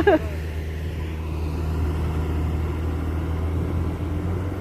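Diesel truck engine running steadily with a low, even drone.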